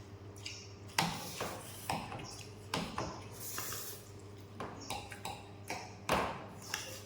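Irregular taps and clinks of utensils on plates as chow mein is eaten, over a steady low hum.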